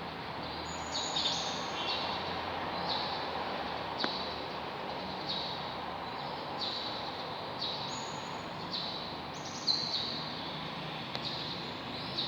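Lovebirds chirping: short, shrill chirps repeated about once a second over a steady background hiss.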